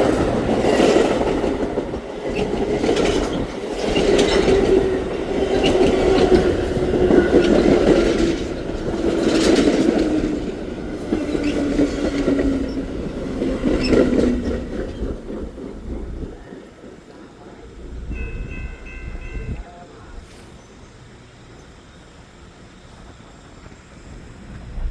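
Metra commuter train with an F40PH-2 locomotive rolling into the station and braking, wheels clattering over the rails. A tone falls steadily in pitch as the train slows. The sound fades after about fifteen seconds, with a short high tone near eighteen seconds.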